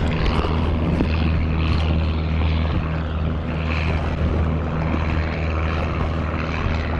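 A steady, low engine drone holds through the whole stretch, with the washing and splashing of water over it.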